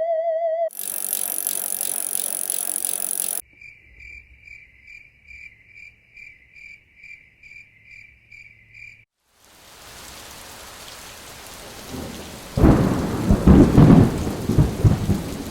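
A string of separate short sounds. First a brief burst of loud hiss, then a high pulsing tone repeating a little over twice a second. After a short gap, rain-like hiss builds and a loud, low thunder rumble takes over near the end.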